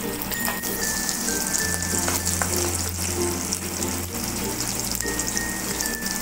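Sliced onions and mustard seeds sizzling in hot oil in a kadai, with scattered sharp crackles, while a wooden spatula stirs them.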